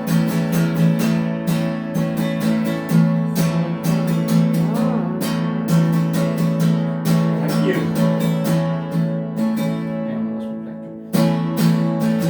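Acoustic guitar strummed in a steady rhythm, playing a song's instrumental introduction. The strumming eases off briefly about eleven seconds in, then picks up again.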